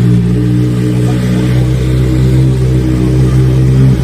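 Kawasaki Z900RS inline-four motorcycle engine running at a steady speed through an aftermarket exhaust, a loud, even exhaust note with no revving.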